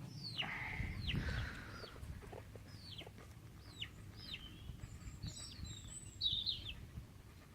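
Chickens calling: a string of short, high, falling chirps and clucks, loudest about a second in and again in a quick cluster near the end.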